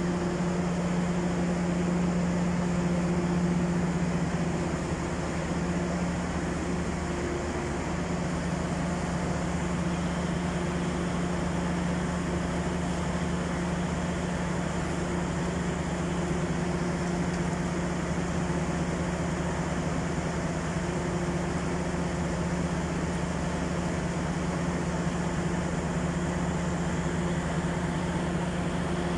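Steady droning hum of a passenger train standing at the platform with its engine and on-board equipment running, holding one low tone with no change.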